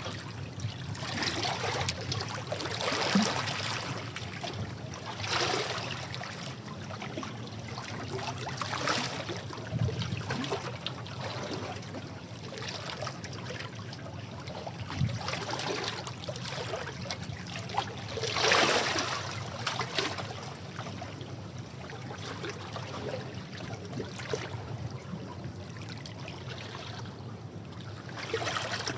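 Sea waves washing against rocks: a continuous rush of water, with splashing surges every few seconds. The biggest surge comes about two-thirds of the way through.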